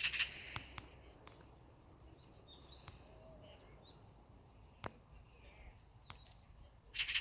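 Wild birds calling: a loud burst of rapid, high, close-set notes at the start and again near the end, with faint scattered chirps between.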